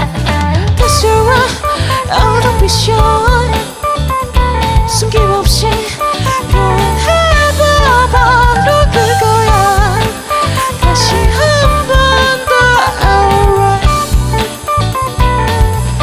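Indie band playing an instrumental passage: a lead melody with bending, sliding notes over electric guitar, bass guitar and drum kit.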